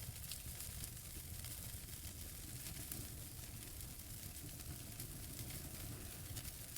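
Wood fire burning in a fireplace: a steady low rumble and hiss with many small crackles and pops scattered through it.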